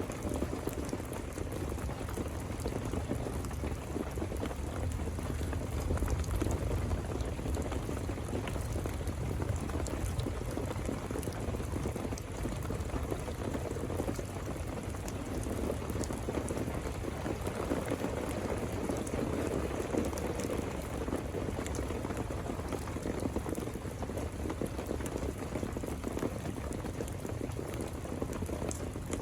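Steady heavy rain, a dense, even patter of drops.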